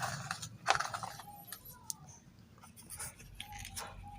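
Toy truck handled and pushed along a miniature dirt road: small plastic clicks and scraping, with one sharp click about a second in.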